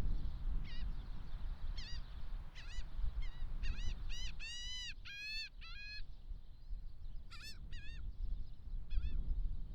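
Gulls calling: a string of loud, arched cries, single calls at first and then a fast run of them a few seconds in, with a few more near the end, over a steady low rumble.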